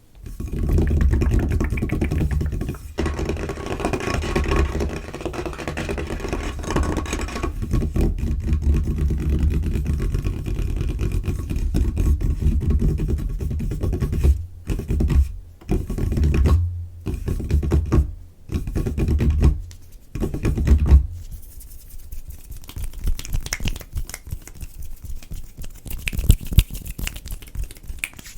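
Fingertips and nails tapping and scurrying fast on a tabletop in a dense run of quick taps, broken by a few short pauses. About three-quarters of the way through, this gives way to quieter scratching and rubbing on the surface, with a couple of sharper taps.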